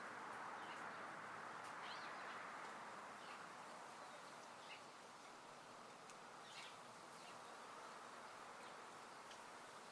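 Faint outdoor backyard ambience: a steady soft hiss with a few short, high bird chirps scattered through it, about two, five and six and a half seconds in.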